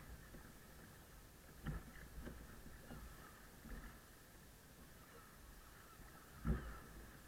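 Kayak on the water: a few soft, low knocks from the paddle or hull over a faint steady background, the loudest near the end.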